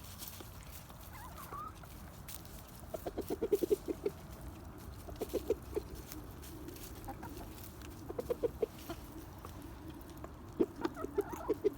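Backyard hens clucking in short, quick runs, several times over.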